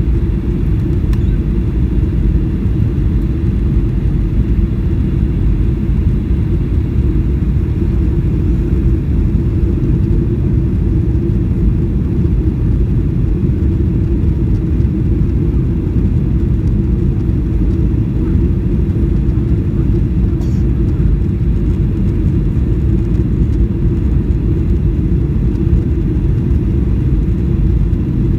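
Steady low rumble of a Boeing 737-800's CFM56-7B engines and rushing air heard inside the passenger cabin on approach.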